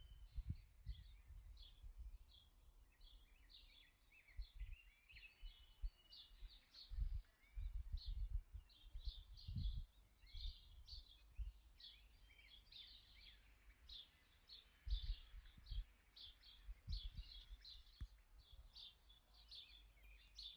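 Birds chirping in many quick, short calls, faint, with irregular low thumps and rumbles underneath that are the loudest moments.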